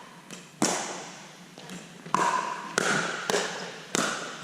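Pickleball rally: paddles striking the plastic ball in sharp, ringing pocks, one about half a second in and then four more in quick succession about half a second apart.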